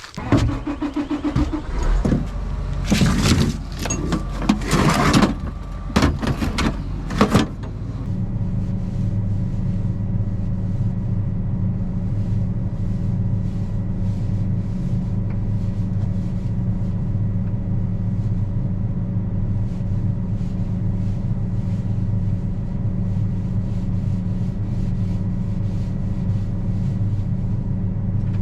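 A few seconds of loud clunks and rattles, like a door and someone climbing aboard, then a vehicle engine settles into a steady, even running drone for the rest of the time.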